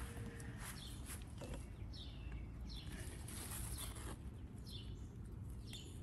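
A songbird calling in the garden: a string of short, high, downslurred chirps, about one a second, five or so in all, over a faint low outdoor rumble, with a few soft clicks.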